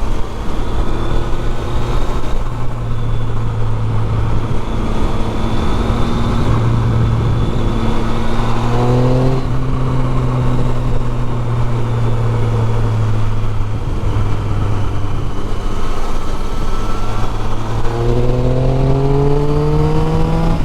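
Triumph Street Triple 675's inline three-cylinder engine and loud exhaust pulling under way, with wind noise. The revs climb quickly about nine seconds in, drop back at a gear change and hold steady, then climb again near the end as the bike accelerates.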